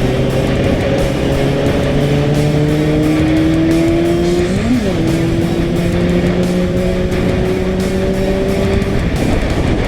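Motorcycle engine pulling steadily, its pitch climbing slowly, with a brief sharp rise and drop in pitch near the middle. Music plays underneath.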